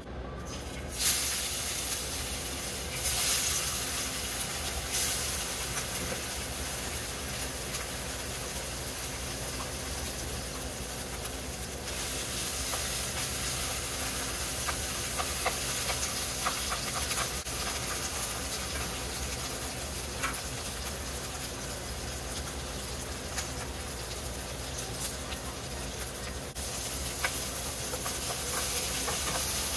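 Marinated chicken pieces hitting hot oil in a nonstick frying pan, starting a sudden sizzle about a second in that goes on steadily as the chicken fries. A wooden spatula stirs and scrapes the pieces, adding scattered clicks.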